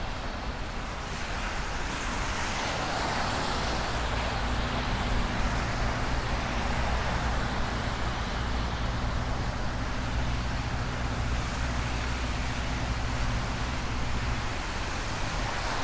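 Steady road traffic noise from passing cars, with a low engine hum swelling in from about four seconds in and fading away near the end.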